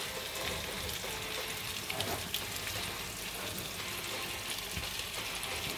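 Chopped onion and bell peppers sizzling in hot oil: a steady frying hiss with small crackles and pops.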